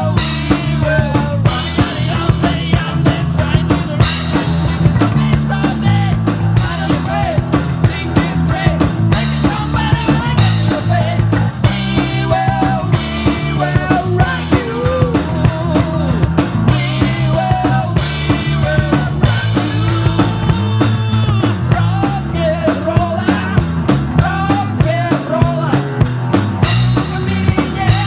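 Live rock band playing: a drum kit keeping a steady beat under bass and electric guitar, with bending melodic lines over the top.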